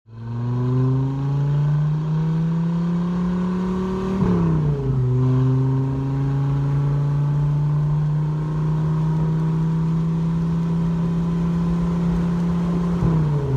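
1994 Dodge Viper RT/10's 8.0-litre V10 pulling under acceleration, its note climbing slowly in pitch. It drops as the car shifts up about four seconds in and again near the end.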